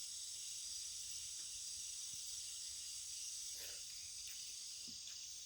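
Steady high-pitched insect chorus, a continuous shrill hiss with a few faint scattered clicks.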